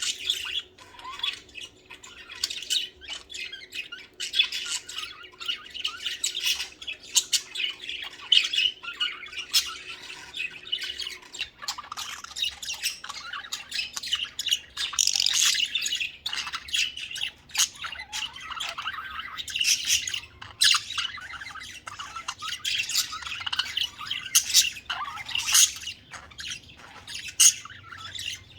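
Budgerigars chattering and warbling nonstop, with quick chirps, clicks and squawks. A faint steady hum underneath stops about a third of the way through.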